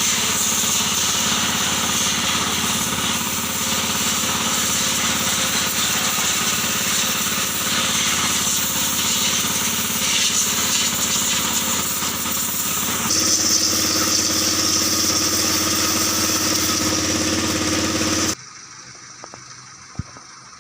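Kubota L3608 tractor's diesel engine running steadily. About two-thirds of the way through its tone shifts, and near the end the sound cuts off suddenly, leaving quiet with a single click.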